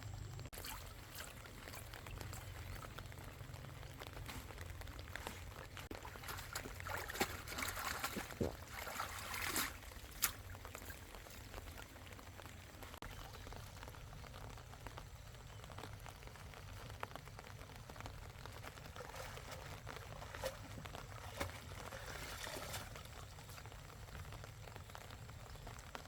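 Water trickling and pouring, with some rustling and a few sharp clicks near the middle.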